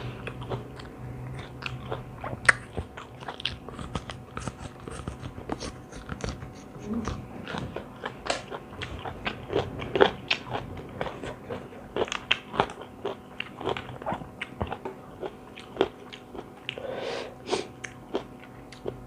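A person chewing and biting crunchy food close to the microphone, with many irregular crisp crunches.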